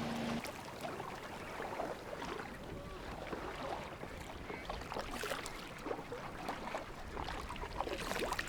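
Water lapping and splashing around a kayak, with scattered small knocks and drips, and a low rumble rising near the end.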